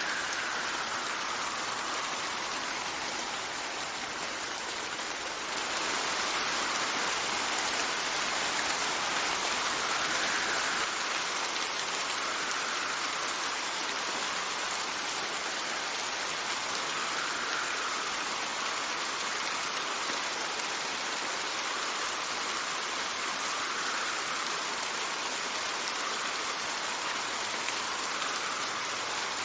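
Steady rain falling, with wind rising and falling in slow gusts every few seconds. The rain gets a little louder about five seconds in.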